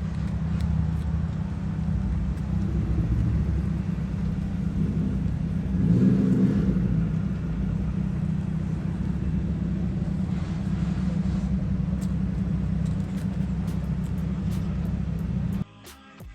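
Toyota Crown Majesta's 4.6-litre V8 running through a full straight-pipe exhaust, a loud, low-pitched engine sound that swells briefly around six seconds in. It cuts off abruptly shortly before the end, and music begins.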